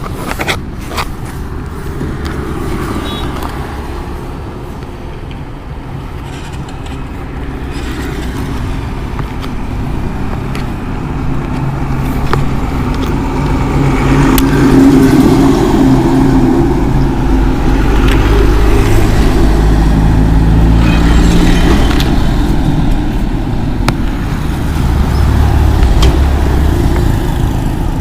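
Motorcycle riding along a road: engine running with steady wind and road rumble on the bike-mounted camera, growing louder about halfway through and swelling again near the end.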